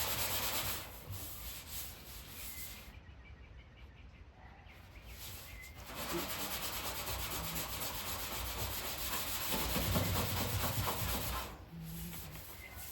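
Abrasive scrubbing pad rubbed by hand over the bare steel of a 1967 VW Beetle hood, a scratchy rubbing that stops about a second in and starts again around six seconds, running until near the end.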